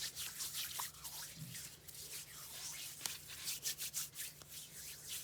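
Purple chalk being crushed and rubbed, making a rapid series of dry, crunchy scraping strokes, several a second.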